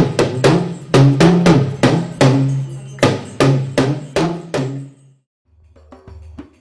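Talking drum music: a fast run of struck drum strokes whose pitch steps up and down, like a gángan imitating speech. It stops about five seconds in. After a short gap, quieter music comes in with low bass notes and light clicks.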